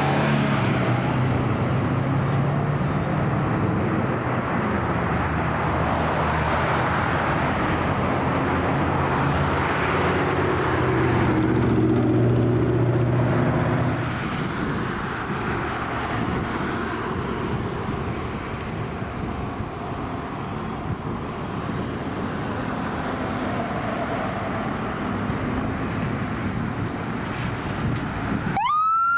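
Fire engine's diesel engine running steadily, then dropping in level about halfway through into general road traffic noise as the truck moves off. Near the end, after a sudden cut, a siren starts with a rising wail.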